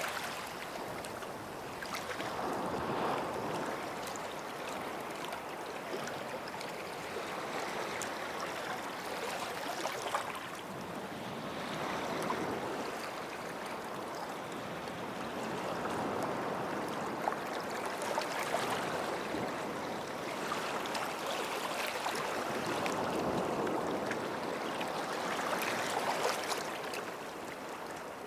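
Small waves washing onto a sandy shore, swelling and receding every few seconds, with light crackling of water and sand.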